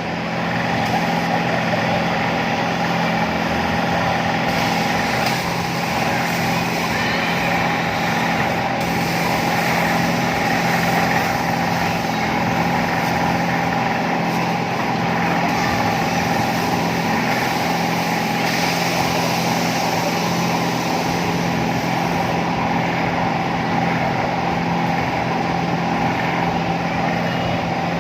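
Amusement-park airplane ride running: a steady mechanical hum with a constant whine over it, unchanging throughout.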